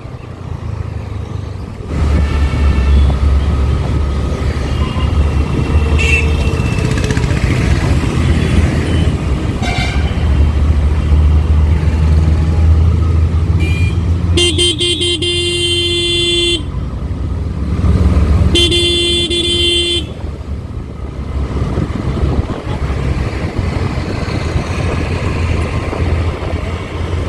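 Riding a scooter through road traffic: a steady low rumble of engine and wind, with a vehicle horn honking twice midway, each blast lasting about two seconds.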